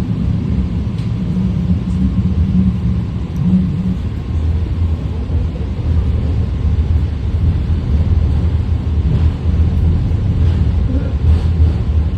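Inside a BART three-door (Fleet of the Future) car running between stations: a steady low rumble. The hum shifts lower about four seconds in.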